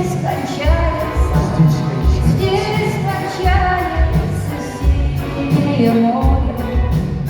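Live pop song: a woman singing a melody over a band with a steady bass and kick-drum beat.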